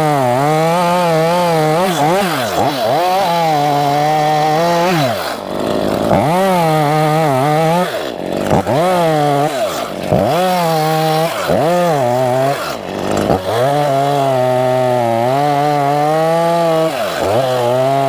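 Stihl chainsaw cutting a ring through the bark around a tree trunk to girdle it. The engine runs at high revs, its pitch sagging and recovering as the chain bites, and it drops back and revs up again several times between passes.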